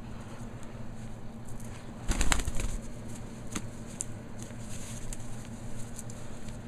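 Parrot flapping its wings in a brief flurry about two seconds in, followed by a few sharp clicks.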